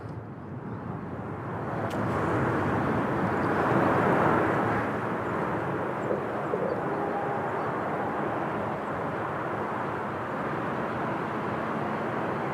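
Distant engine noise from a passing vehicle: a steady rushing sound that swells to its loudest about four seconds in and then holds.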